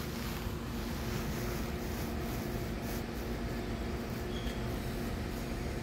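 Steady hum and low rumble of a standing Amtrak Northeast Regional passenger car at the platform, its onboard equipment running, with a couple of steady tones in the hum.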